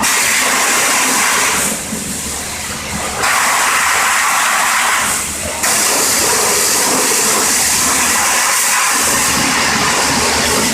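High-pressure water spray hissing loudly as it washes down a car's engine bay, in long bursts with a weaker stretch about two seconds in and a brief break about halfway.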